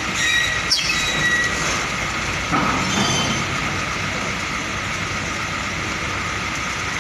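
Heavy truck manoeuvring slowly with its engine running, with brief high squeals in the first second or so, one sliding down in pitch, and again about three seconds in.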